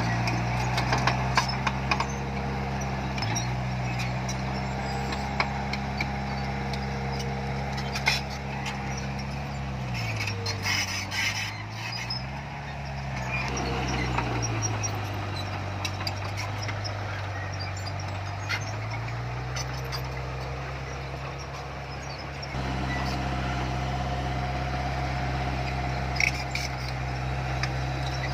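Heavy diesel engine of earthmoving machinery running under load: its pitch drops about ten seconds in, briefly rises and falls again, then climbs back near nineteen seconds. Scattered clanks and knocks ride over it, and the sound steps up abruptly about 22 seconds in.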